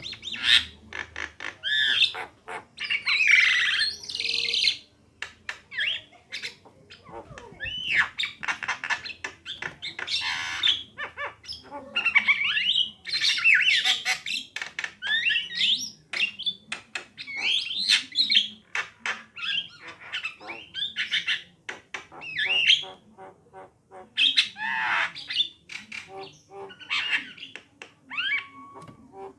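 Javan myna (jalak kebo) singing: a busy, continuous chatter of rapid clicks, harsh squawks and whistled phrases, broken by short pauses.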